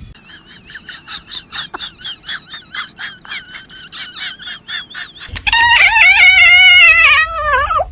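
Bird calls: a run of quick high chirps, several a second, then about five seconds in a much louder long wavering call that tails off near the end.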